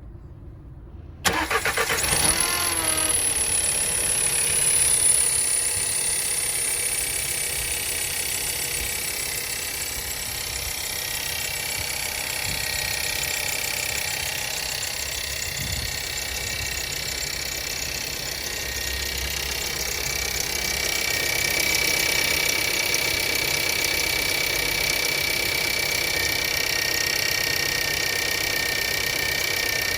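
Skoda Yeti engine cranking and catching about a second in, with a thin, high squeak for the first few seconds after it fires. The engine then settles into a steady idle. The squeak is an unexplained fault at start-up.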